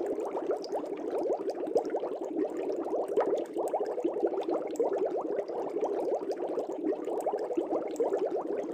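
Air bubbles streaming up through fish-tank water, a steady dense bubbling of many small gurgling blips.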